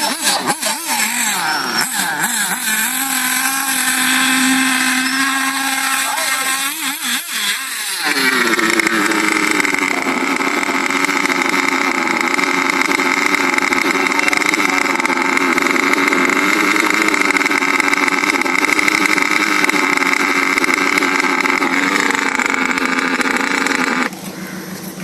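Electric RC car motor whining, its pitch rising and falling for the first eight seconds. It then jumps to a higher, steady full-speed whine that holds for about sixteen seconds and cuts off shortly before the end.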